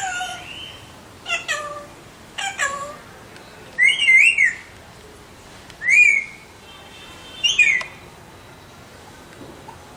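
Alexandrine parakeet giving a series of about six short whistled calls, some falling in pitch and some warbling up and down.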